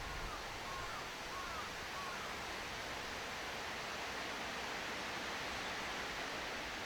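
Steady outdoor background hiss with four short, curved whistled bird notes, about half a second apart, in the first two seconds.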